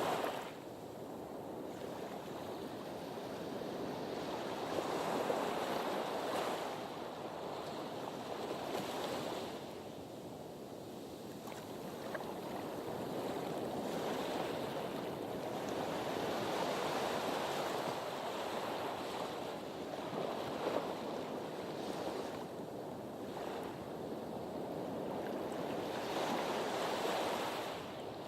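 Sea waves washing against a harbour breakwater, a continuous rush of surf that swells and eases every few seconds.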